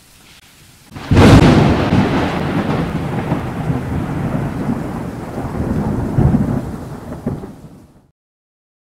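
A sudden loud crash followed by a long, rolling rumble that slowly dies away with a couple of swells, cut off abruptly near the end.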